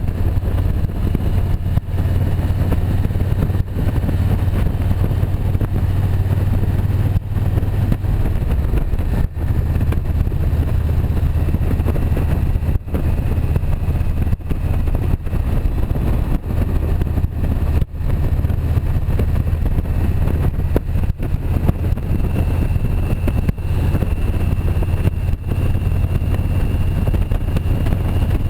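Motorcycle engine running steadily as the bike is ridden, a low drone that does not change much.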